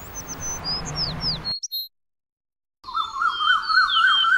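Birds chirping with quick falling notes, cutting off to dead silence for about a second, then more birdsong with a repeated rising-and-falling warble under high chirps.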